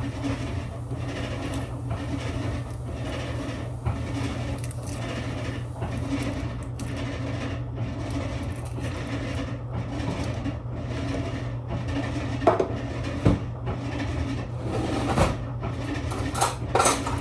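Kitchen food preparation: a steady run of soft rubbing or scraping strokes, about two a second, over a constant low hum, with a few sharper knocks and clinks near the end.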